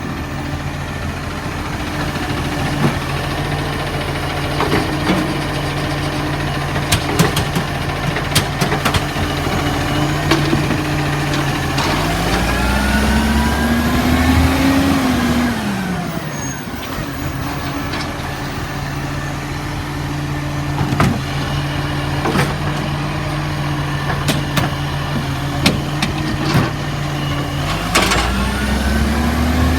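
Garbage truck's diesel engine idling, revving up twice for a few seconds and dropping back, with scattered clunks and knocks.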